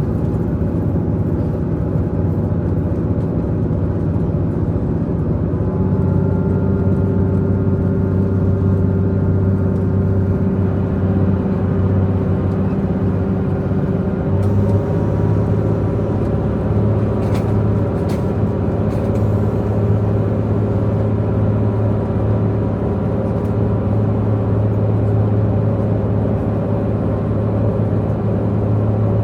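Diesel engines of a diesel multiple-unit express train running at speed, heard from inside the passenger car as a steady drone. The engine hum steps to a new pitch about six seconds in and again about halfway through.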